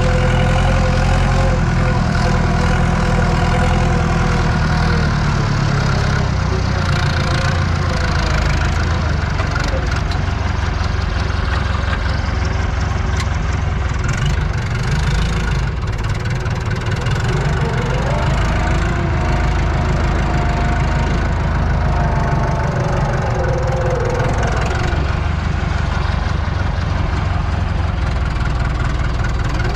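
Tractor diesel engine running steadily while pulling a cultivator, heard from inside the cab. Its pitch shifts up and down a little around the middle.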